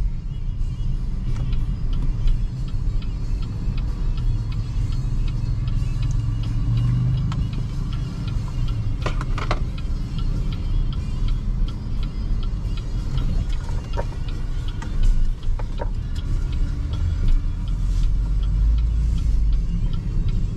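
Steady low road and tyre rumble inside the cabin of a BYD Seagull electric car driving on an expressway, with no engine note. A few light clicks can be heard partway through.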